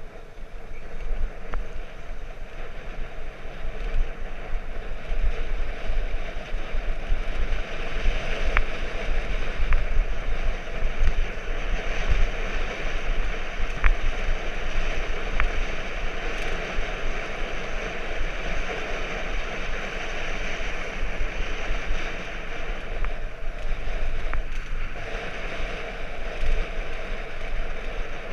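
Wind rushing over the microphone and tyre noise from a bicycle being ridden: a steady rushing with deep buffeting, broken by a few sharp ticks.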